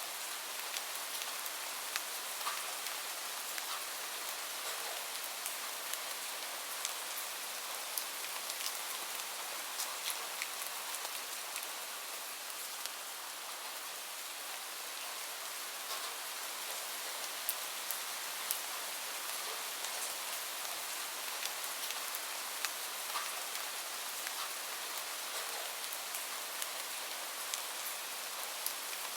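Steady rain falling on a surface, an even hiss with many scattered individual drop ticks.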